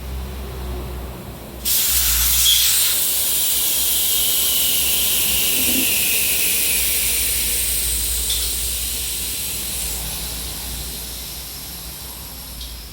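Air hissing out of a motorcycle's rear tyre as it is let down for a tyre change. The hiss starts suddenly a little under two seconds in and fades slowly as the pressure drops.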